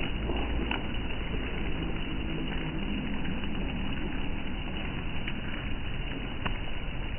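Steady rain pattering, with a few sharp ticks of single drops striking, over a low rumble.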